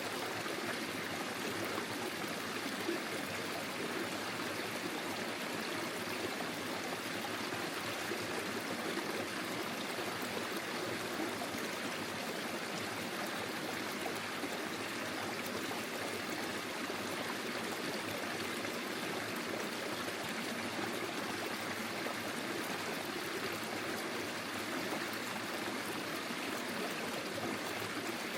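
Small forest stream flowing and trickling steadily over its bed.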